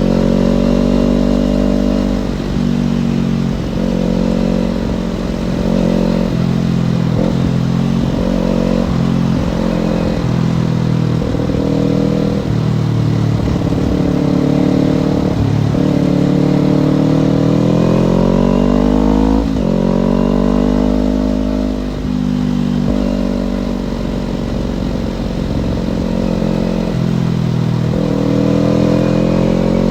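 Kawasaki Ninja parallel-twin engine under way, its pitch rising and dropping with throttle and gear changes: several quick ups and downs in the first half, a long rising pull around the middle that falls sharply at a shift, then steadier running near the end.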